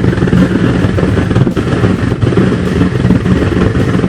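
Homemade blower-fed waste oil burner firing at full flame, a loud, steady, rough rumble of flame and blower air; it is burning well.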